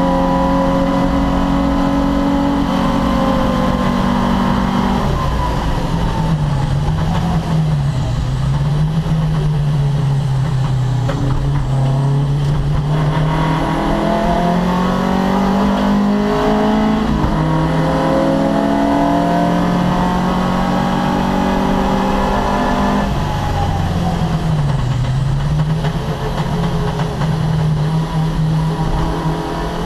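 Opel Kadett C race car's engine running hard without a break. Its pitch dips and climbs back twice, about eight seconds in and again near twenty-five seconds.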